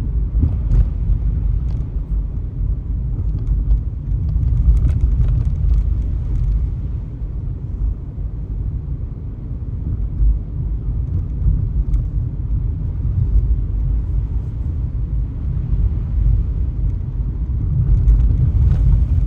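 Car driving, a steady low rumble of road and engine noise heard from inside the cabin, with a few faint crackles about five seconds in and near the end.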